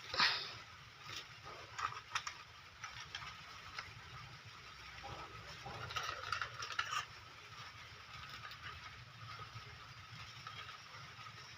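Plastic toy vehicles being set down and arranged, with scattered light clicks and knocks, the loudest just after the start.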